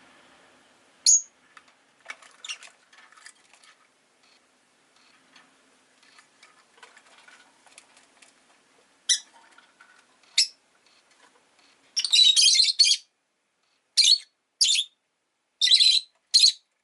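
Peach-faced lovebird giving short, sharp, high-pitched chirps, singly and in a rapid burst about twelve seconds in, with quieter chatter between them.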